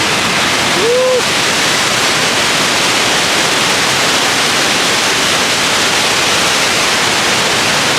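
Steady, loud rush of Victoria Falls' water pouring into the gorge. About a second in, a short rising-then-falling tone sounds over it.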